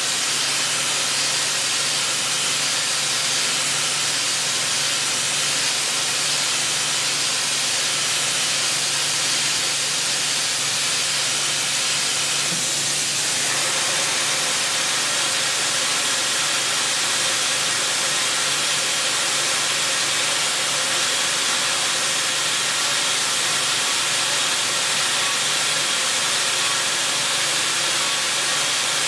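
Milling machine running: a steady, unbroken hiss with a faint low hum underneath.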